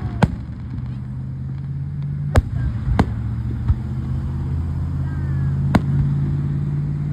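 Fireworks going off, four sharp bangs spread across a few seconds (two close together about two and a half seconds in). Under them a car engine runs steadily with a low hum that swells slightly.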